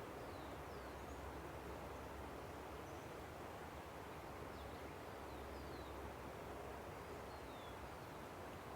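Steady, faint rushing of a river, with scattered short, thin, falling bird whistles over it.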